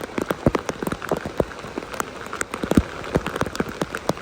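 Rain falling on the river, a dense, irregular patter of separate drops striking close by over a steady hiss.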